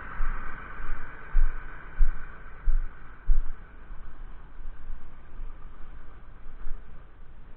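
Fiatagri 130-90 tractor's diesel engine running steadily, with four irregular low thumps between about one and a half and three and a half seconds in.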